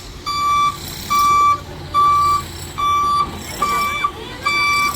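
Dumper truck's reversing alarm beeping steadily, about six evenly spaced beeps, as the truck backs in to unload, with its diesel engine running underneath.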